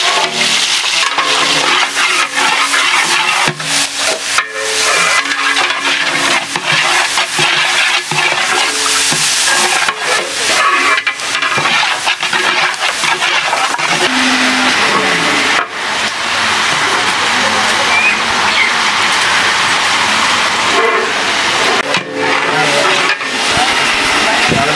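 Sliced shallots and green chillies sizzling in hot oil in a large aluminium pot. A long iron ladle knocks and scrapes against the pot's sides at irregular moments as it stirs.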